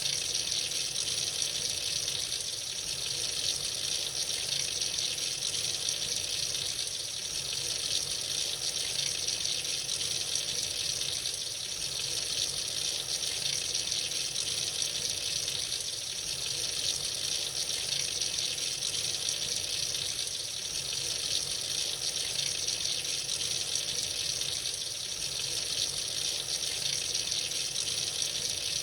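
Tap water running freely into a sink in a steady, even stream, a constant splashing hiss with no breaks.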